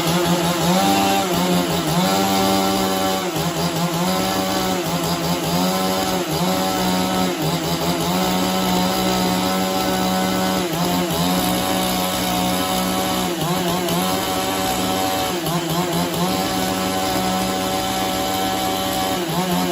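Two-stroke chainsaw engine running at a steady high speed, its pitch sagging briefly every couple of seconds and then recovering.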